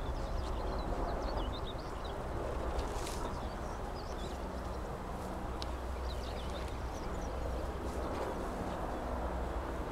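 Small birds twittering in many short, quick chirps over a steady background hiss and low rumble.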